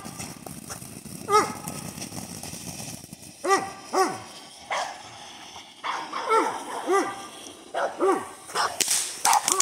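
Dog barking repeatedly at fireworks, about ten sharp barks in irregular bursts; crackling fireworks start up near the end.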